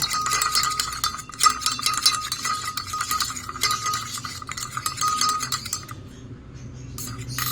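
Spoon stirring fast in a glass jar, clinking and ringing against the glass as hand-feeding formula is mixed with water; the stirring dies down about six seconds in.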